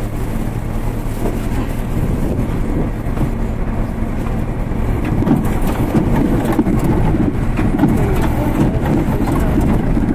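R32 subway car running along the track: a steady low hum under the rumble and clatter of steel wheels on rail, which grows louder from about halfway through.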